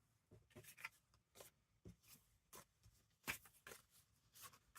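Faint rustling and light taps of paper and card as journal pages and paper pieces are handled, in scattered short bursts.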